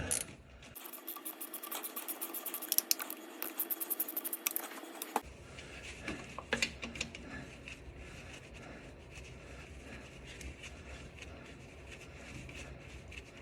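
Socket ratchet clicking rapidly for about four seconds as a starter mounting bolt is worked loose, then a few scattered clicks over low background noise.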